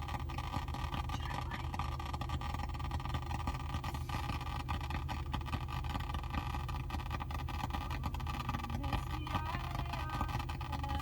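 Irregular crackling clicks over a steady low hum.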